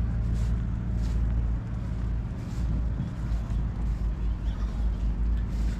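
A heavy truck's diesel engine running steadily at low speed, giving a deep, even hum.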